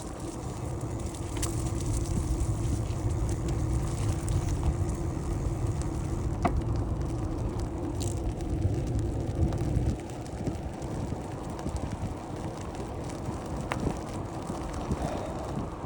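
Wind buffeting the microphone with the rolling noise of a bicycle being ridden. The low rumble eases off about ten seconds in, and a few faint clicks come through.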